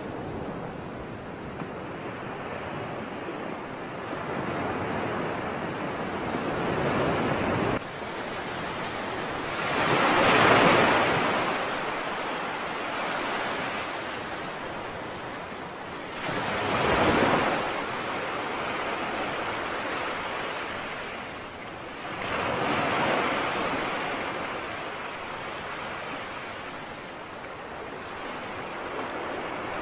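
Sea waves breaking and washing ashore in slow surges every several seconds, the loudest crests about ten and seventeen seconds in.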